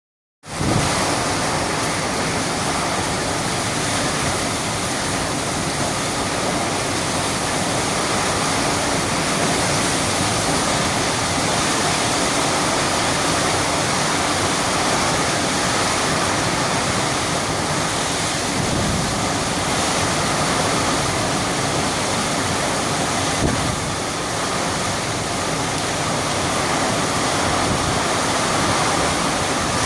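Heavy rain falling, a steady, dense hiss with no let-up.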